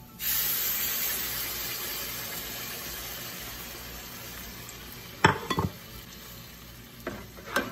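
Tomato paste hitting hot oil with cumin and garlic in a frying pan: a loud sizzle that starts at once and slowly dies down. About five seconds in, and again near the end, the stirring spatula knocks against the pan.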